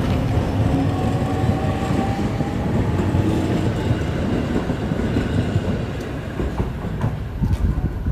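Limited express Tsugaru train running, heard from inside the carriage: a steady low rumble with faint whining tones, and a few clacks of the wheels over rail joints near the end.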